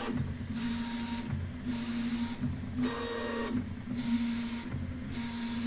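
Prusa i3 3D printer running, its stepper motors whirring in a regular back-and-forth cycle about once a second over a steady low hum.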